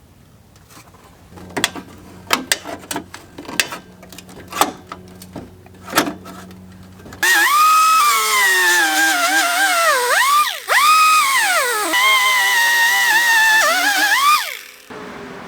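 Light metal knocks and taps on steel. Then a high-speed power tool grinds metal for about seven seconds, its pitch sagging and recovering as it is pressed in, and cutting out briefly about halfway through.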